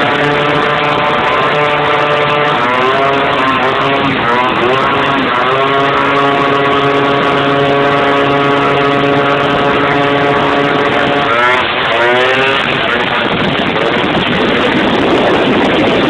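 Newly fitted engine of an MBK Booster scooter being tested: it runs steadily and is revved up and down a few times, then rises sharply about eleven seconds in and turns rougher and noisier near the end.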